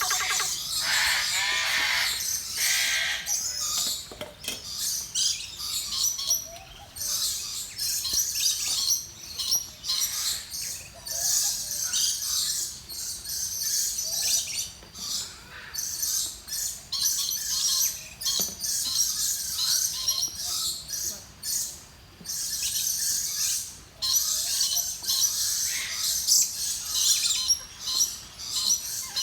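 A pair of parakeets chattering and squawking with shrill, high-pitched calls, broken by short pauses every few seconds.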